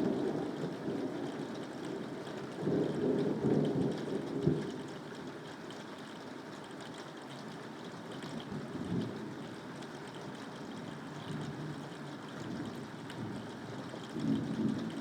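Steady rainfall with low rumbles of thunder, swelling about three seconds in and again near the end.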